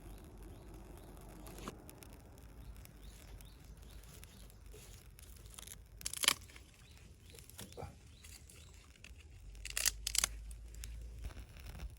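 A few short tearing, rustling sounds: the loudest about six seconds in, a smaller one near eight seconds, and two close together around ten seconds.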